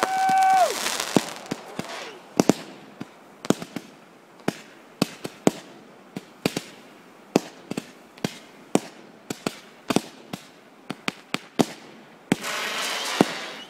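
Fireworks going off: a string of sharp pops and bangs scattered irregularly, roughly one or two a second, opening with a brief whistle and a hissing rush. Near the end a second hissing rush comes as another firework shoots up.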